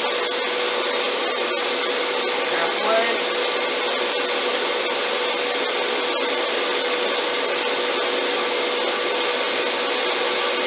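1500-watt snow machine running, its blower giving a steady rushing hiss with a steady high whine and a lower hum.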